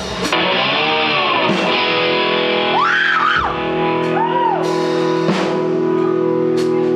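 Amplified electric guitar sustaining a ringing chord, with a couple of swooping pitch bends bent up and back down, and a few drum hits, played live between songs.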